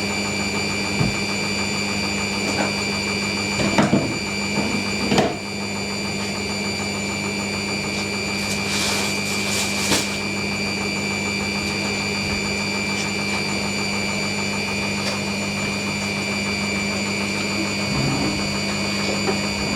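Hoover NeXtra washing machine running between wash and first rinse, a steady motor-and-pump whine with a low hum, with a few short knocks about four to five seconds in and a brief hiss near the middle.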